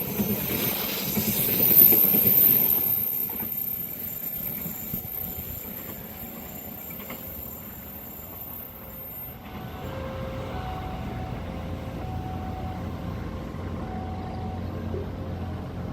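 Train running through a curved level crossing, its wheels squealing high and steady on the curve over a rhythmic clatter of wheels on the rail joints, loudest at the start and fading away within the first few seconds. After that a steady low engine hum takes over.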